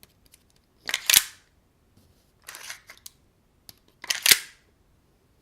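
Steel CO2 magazine of an RA Tech Kimber Royal II airsoft 1911 with all-steel parts being released from the grip and then inserted again: metallic clacks, the loudest about a second in and near four seconds in, with a softer clack between.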